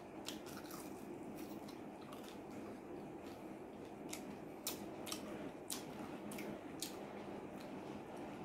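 A person chewing and pulling apart a fried chicken wing close to the microphone, with scattered, irregular sharp clicks and smacks over a low steady background.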